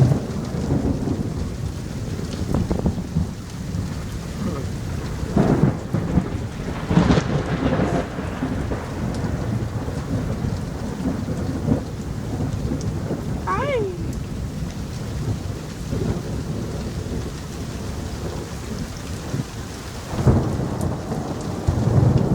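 Heavy rain pouring down with thunder rumbling continuously. The thunder swells louder about a quarter of the way in and again near the end.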